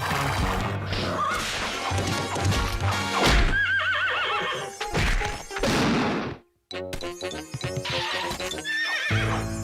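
Cartoon score music with a horse whinnying over it, a wavering high cry about three and a half seconds in and a shorter one near the end. The sound cuts out briefly just after the middle.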